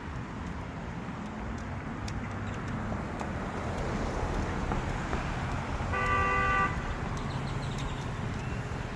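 Road traffic passing steadily, with one short car horn honk lasting under a second about six seconds in.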